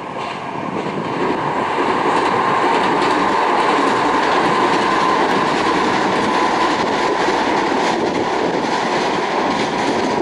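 Kintetsu Minami-Osaka Line electric train crossing the Yamato River railway bridge: steady, loud wheel and rail noise with a constant hum through it, building over the first second or two and then holding.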